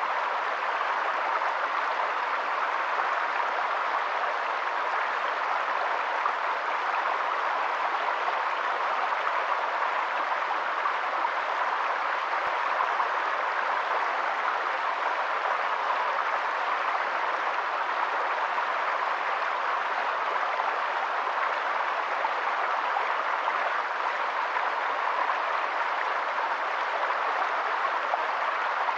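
Steady rush of running water, even and unchanging throughout.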